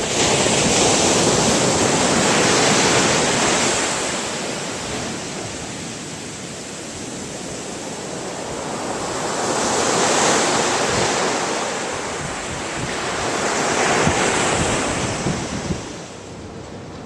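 Ocean surf breaking and washing up the beach, a steady rushing noise that swells and fades three times, with wind on the microphone.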